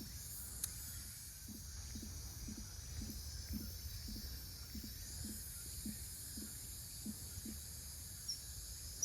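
Late-summer insect chorus, a steady high-pitched shrill, over a low background rumble. A regular series of soft low pulses, about two a second, runs until near the end, and there is one sharp click about half a second in.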